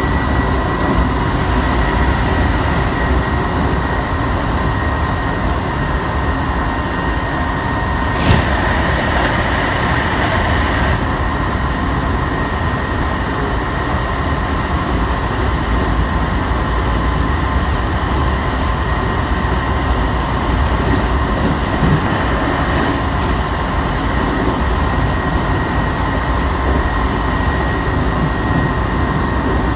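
Shibayama Railway 3500 series electric train running, heard from inside the car: a steady rumble of wheels on rail with a steady whine over it. A single sharp knock about eight seconds in is followed by a couple of seconds of louder rushing noise.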